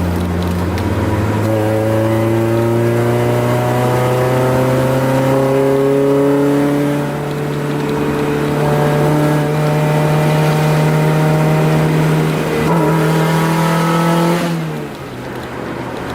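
Honda F22B1 2.2-litre four-cylinder VTEC engine revving up under hard acceleration. The revs climb, drop briefly twice as the gears change (about a third of the way through and again late on), climb again, then fall away as the throttle is lifted near the end.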